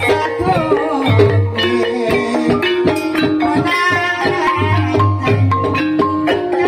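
Gamelan-style accompaniment music: mallet-struck keyed instruments playing a busy melody over hand-drum (kendang) beats.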